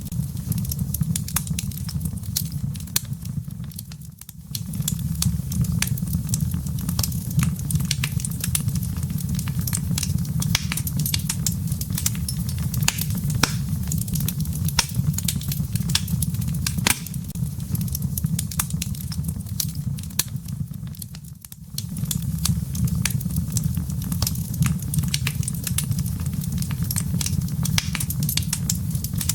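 Wood fire in a fireplace crackling: frequent sharp pops and snaps over a steady low rumble of burning. The rumble briefly fades twice, about four seconds in and again about twenty-one seconds in.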